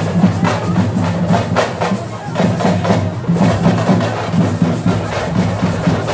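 Music with loud drumming in a steady, quick beat.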